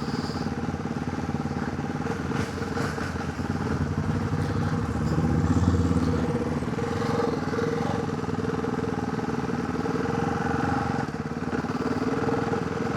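Motorcycle engine running under way, heard from a helmet chin-mount camera with wind and road noise; it gets louder about five seconds in, then settles back.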